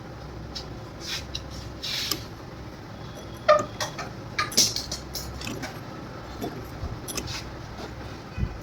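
Scattered metallic clinks and knocks of tools and parts being handled, the loudest about three and a half and four and a half seconds in, over a steady low hum.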